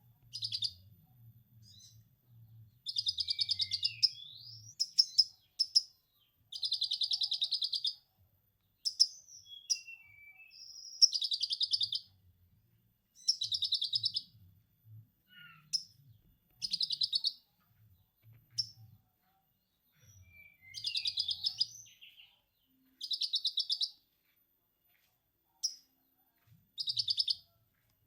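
Konin songbird singing in repeated bursts of rapid, high chattering about a second or so long, with short pauses between, in the style of a lovebird's long 'ngekek' chatter.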